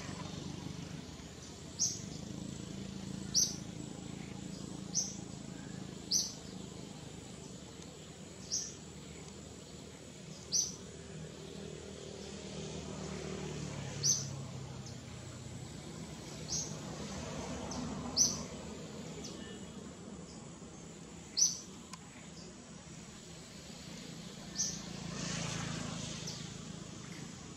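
A bird giving a short, high chirp over and over, about every one to three seconds, eleven times in all.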